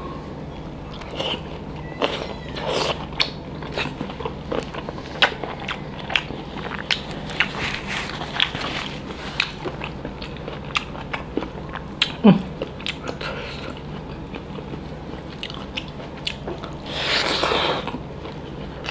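Chewing and eating sounds of a man eating pork curry and rice by hand: wet smacking and soft crunching mouth clicks. Near the end comes a longer hiss of about a second.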